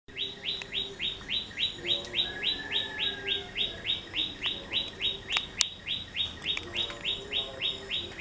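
A bird calling over and over, a short rising chirp repeated evenly about four times a second.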